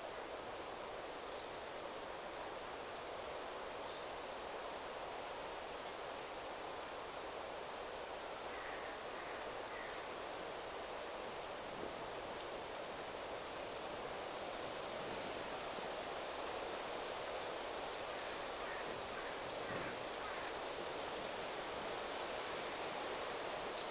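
Wind rustling steadily through forest trees, with scattered high, thin bird calls. From about fifteen to twenty seconds in, a small bird repeats a short high note about twice a second.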